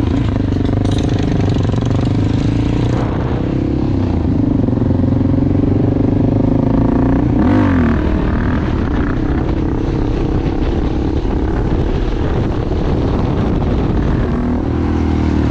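Motorcycle engine and exhaust running steadily while riding, with a dip and rise in engine pitch about seven and a half seconds in, like a gear change.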